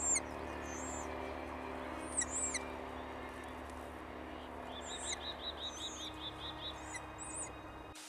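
High, thin bird chirps scattered through, with a rapid run of short repeated notes, about five a second, from about halfway to near the end, over a steady low hum.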